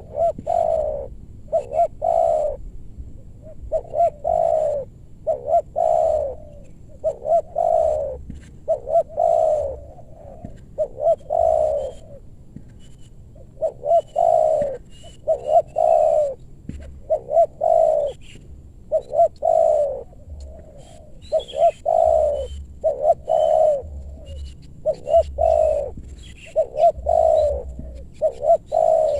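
Spotted dove cooing over and over, in repeated phrases of a few low notes with short pauses between. Faint high chirps of small birds sound in the background.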